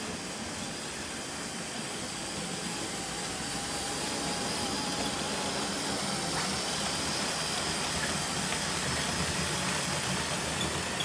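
A geared-down LEGO train's electric motor whining and its wheels rolling over plastic track as it pulls four carriages around the layout, a steady running sound that slowly gets a little louder.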